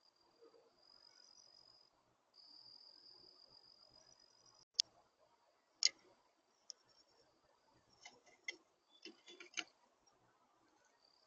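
A faint, steady, high-pitched insect-like trill that breaks off about four and a half seconds in, followed by scattered sharp clicks and taps, several in quick succession near the end.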